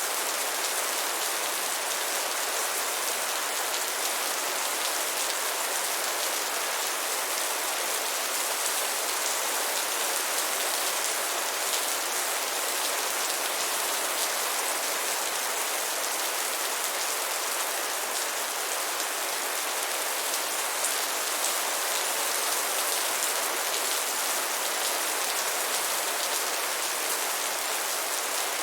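Steady rain falling, an even hiss of many drops pattering on a surface, with no thunder.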